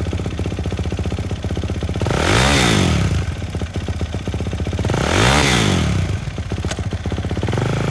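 2021 Kawasaki KX450X's single-cylinder four-stroke engine, fitted with a full Yoshimura exhaust, idling and being revved up and back down twice, about two and a half seconds and five and a half seconds in.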